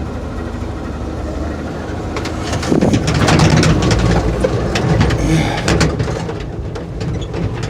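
Chevrolet 250 straight-six truck engine with a Rochester single-barrel carburetor running on choke, its sound growing louder about three seconds in as it is given gas to pull away. It is not running right, with a carburetor that needs a full rebuild.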